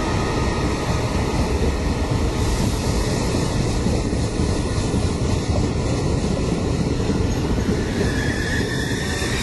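A train moving along the track: a steady, loud rumble of wheels on rails with a thin wheel squeal over it.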